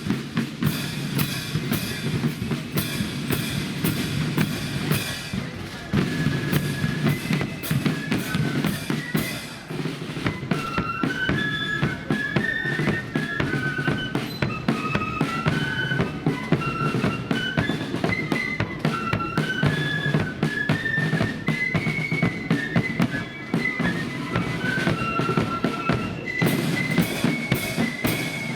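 Marching flute band playing: snare and bass drums beat out a rhythm alone at first, then the flutes come in with a tune about ten seconds in over the drums.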